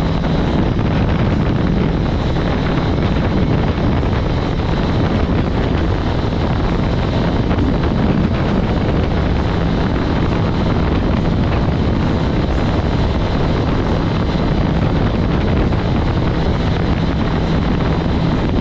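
Kawasaki ZX-10R inline-four engine running at a steady cruise, with wind rushing over the microphone. The sound stays even throughout, with no gear changes or revving.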